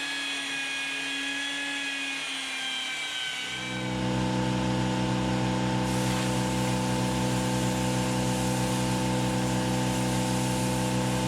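Electric power sander whining as it sands white oak trim and a floor vent grill. About three and a half seconds in, a louder, lower motor hum starts and runs steadily.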